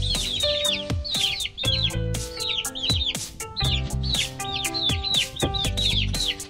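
Baby chicks peeping: a continuous run of short, high chirps, each falling in pitch, several a second, over background music.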